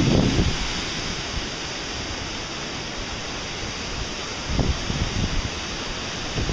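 Steady rushing of a waterfall and river. Wind buffets the microphone at the start and again about four and a half seconds in.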